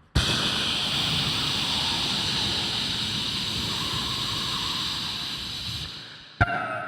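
Vocal imitation of a steam locomotive letting off steam: a loud, steady hiss that starts suddenly and fades away about six seconds in. Near the end a sharp knock and the start of a pitched tone follow.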